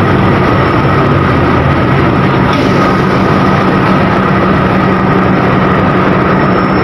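Diesel locomotive of an empty cement freight train running, a loud steady engine rumble with a thin steady whine above it.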